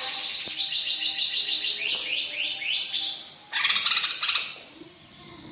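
Greater green leafbird (cucak ijo) singing: a fast run of repeated high chirps, then a few quick falling whistled notes and a short burst of song, before it goes quiet near the end.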